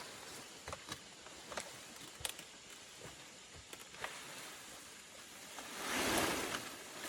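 Scattered light clicks and crackles, then a rustling swish that swells and fades about six seconds in.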